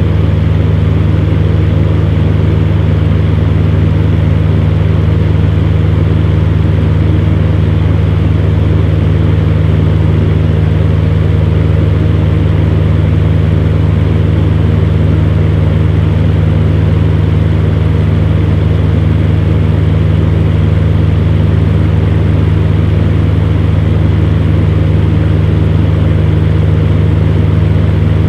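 Electric fan heater running steadily: a constant deep hum with an even whir of air above it.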